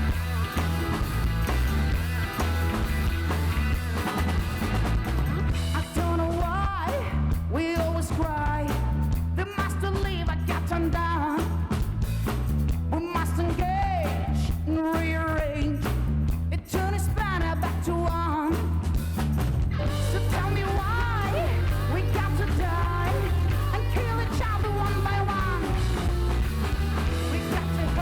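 Live rock band playing a rock song, with guitar and a steady bass line, and a lead singer's voice over it through much of the stretch.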